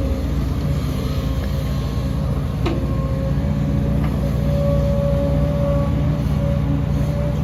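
Heavy diesel engine of earthmoving machinery running steadily, with a sharp knock a little under three seconds in and a fainter one about four seconds in.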